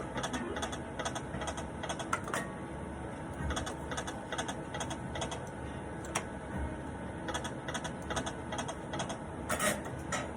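Electronic poker machine giving off rapid, uneven clicks and ticks over a steady background hum.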